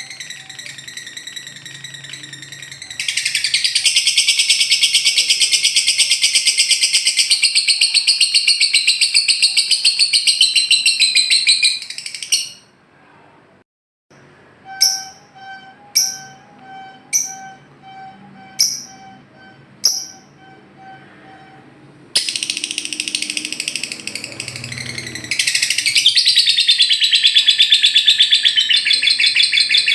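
Lovebird ngekek: long, very rapid, high-pitched chattering trills, broken off about twelve seconds in. After a short pause come single sharp chirps about once a second, then the fast trilling starts again.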